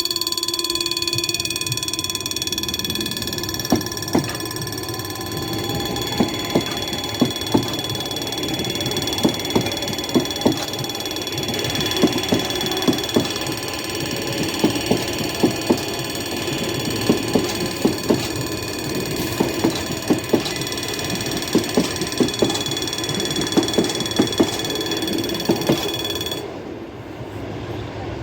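A freight train passes while a level-crossing warning alarm rings steadily, and the wagons' wheels clack irregularly over the rail joints. The alarm cuts off a little before the end.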